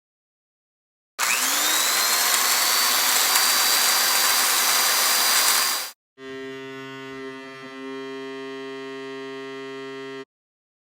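Two sound effects in a row. First a loud whirring noise from a small motorised machine, its whine rising and then holding steady; it cuts off abruptly. After a brief gap comes a quieter, steady buzzing hum that also stops suddenly.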